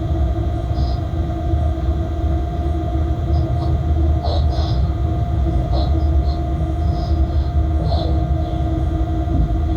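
Freight locomotive running, heard inside the cab: a steady low rumble with a constant electric hum, and now and then short high squeaks or rattles.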